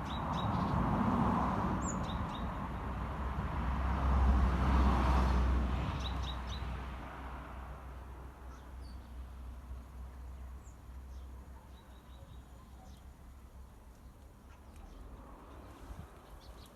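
Small birds chirping in short calls throughout. A loud low rumble is heard over the first half and fades away by about eight seconds in.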